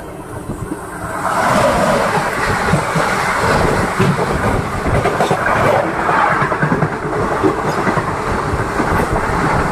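A train passing close on the adjacent track, heard from the open door of a moving train. A loud rush of air and clattering wheels swells about a second in and holds.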